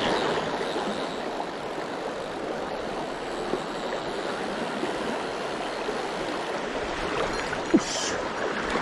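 Mountain stream water rushing steadily over rocks, with a single short click near the end.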